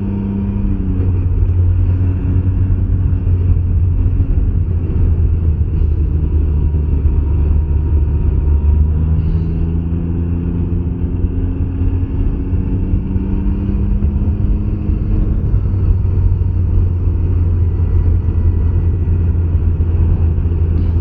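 2021 Can-Am Ryker 900's three-cylinder Rotax engine running under way at road speed, with a steady low rumble. Its pitch drifts a little up and down with the throttle.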